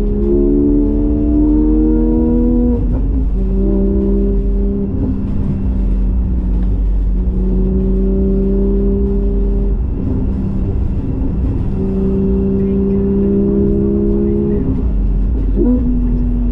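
Porsche 718 GTS 4.0's flat-six running through a Kline stainless exhaust with the valves open. It pulls through the gears: the pitch climbs slowly in each gear and drops at each break, three or four times, with a quick rev blip near the end.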